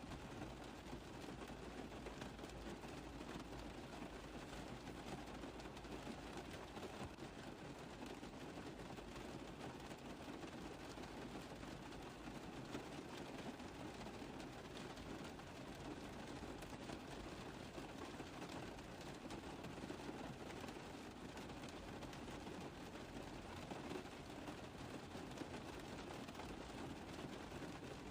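Rain falling on a car roof: a steady, dense patter of many small drop impacts, even in level throughout.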